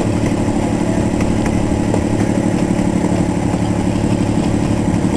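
Zoo miniature train's engine running steadily, heard aboard the moving train, with a fast, even pulsing.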